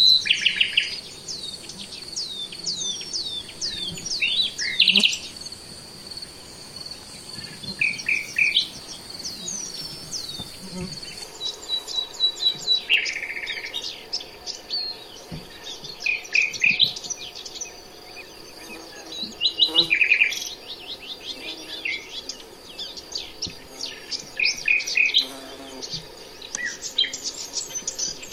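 Birds chirping and singing, in bursts of quick sweeping chirps every few seconds, over a steady high-pitched tone.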